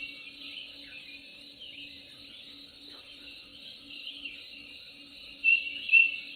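Birds chirping and whistling over a steady, pulsing chorus of insects or frogs, with two louder bird calls near the end.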